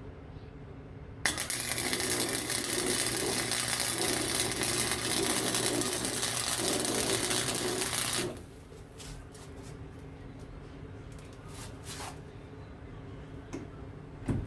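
Arc welding with a small Harbor Freight welder on a snapped metal mower deck-lift rod: a loud crackling hiss of the arc that starts abruptly about a second in, runs for about seven seconds and stops suddenly, followed by a few light clicks.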